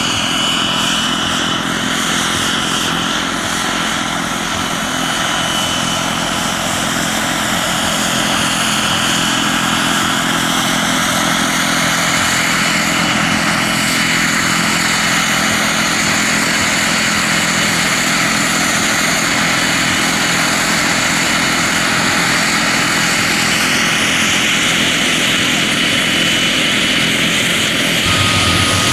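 Radio-controlled scale model helicopter flying: a steady whine with a fixed high tone over the rotor noise, its tone colour sweeping slowly up and down as it moves about.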